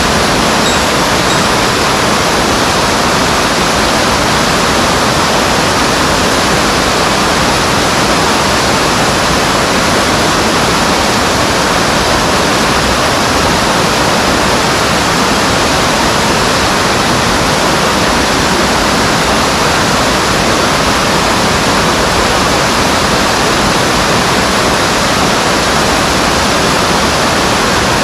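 Mountain stream water rushing over rocks: a loud, steady, unbroken rush.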